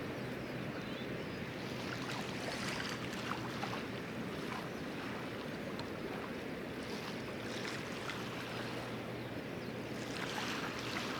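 Water splashing and lapping around a canoe on the water, a steady rushing wash with a few faint splashes, over a faint steady low hum.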